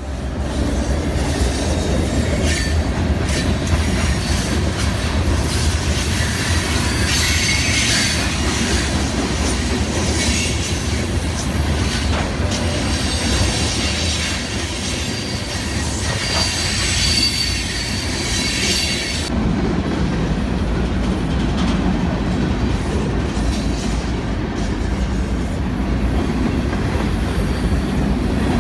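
Union Pacific freight train passing close by: a steady heavy rumble of the locomotive and rolling cars, with clatter and high squealing from the wheels on the rails that stops abruptly about two-thirds of the way through, leaving the low rumble of the cars.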